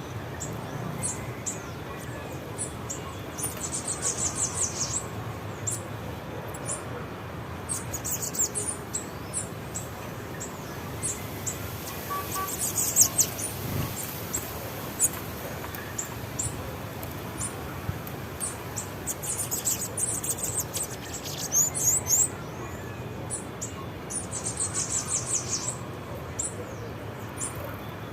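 Small songbirds chirping with high, short notes throughout, broken several times by bursts of rapid high trills.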